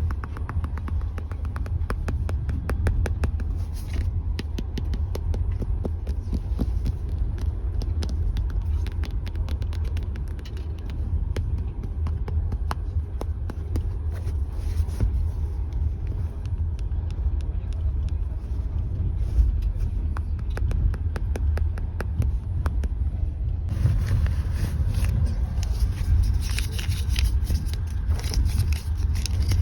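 Steady low rumble of a moving passenger train heard from inside a compartment, with many quick taps and clicks of small objects being handled close to the microphone. About three-quarters of the way in, a brighter rustling hiss joins in.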